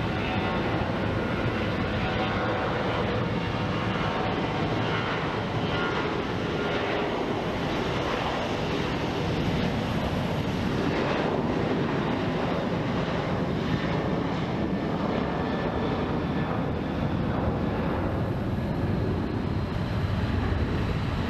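Jet airliner engines at takeoff thrust as it departs: a loud, steady rush of engine noise with a deep rumble underneath and no distinct tones.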